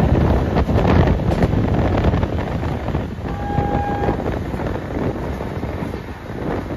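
Passenger train (the Taj Express) running at speed, heard from on board: a steady low rumble with irregular knocks, and wind buffeting the microphone. A brief steady tone sounds about halfway through.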